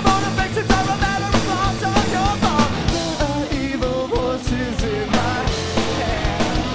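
Rock band playing a song: a sung melody over a steady drum beat and band instruments.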